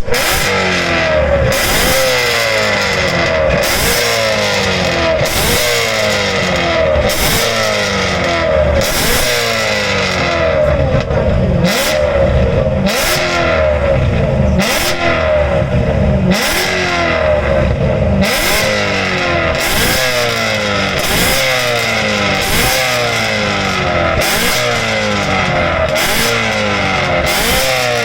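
BMW E92 M3's 4.0-litre V8 revved hard through a loud exhaust, over and over: quick blips about one every second and a bit, the pitch shooting up and falling back each time.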